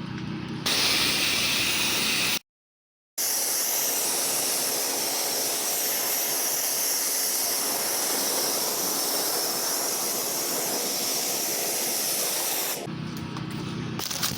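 Pressure washer spray hissing steadily as the water stream hits the house, broken once by a moment of dead silence about two and a half seconds in.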